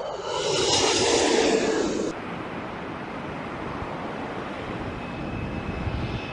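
Jet airliner engines: a high engine whine with several steady tones for about two seconds that cuts off abruptly, followed by a softer, steady engine rush with a faint high whine returning near the end.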